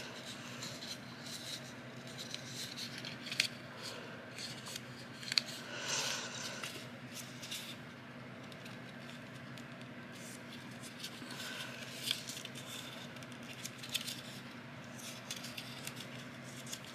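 Faint rustling and crinkling of a thick accordion-folded paper strip as its creases are pressed and the paper is handled, with scattered light ticks and scrapes.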